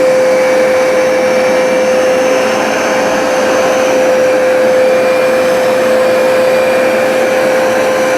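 Hoover SmartWash automatic carpet cleaner running steadily as it is pushed over a rug. Its suction motor gives a constant noise with a steady whine.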